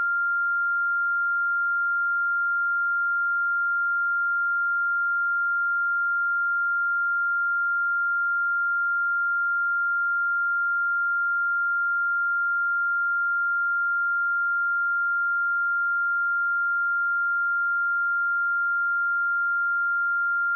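Pure 1395 Hz sine-wave test tone, a single steady high-pitched tone held at constant level.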